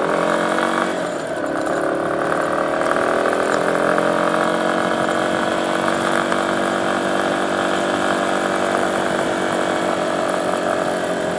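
Dirt bike engine running under way, its pitch climbing over the first few seconds as it picks up speed, then holding steady.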